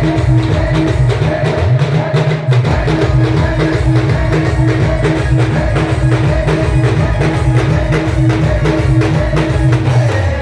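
Loud band music played by a procession band, with a fast, steady drum beat of about four strokes a second under a held melody note.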